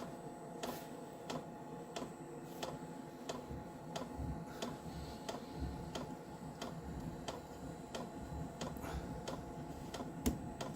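Diesel heater's fuel dosing pump ticking evenly, about three clicks every two seconds, over the steady hum of the heater running as it fires up.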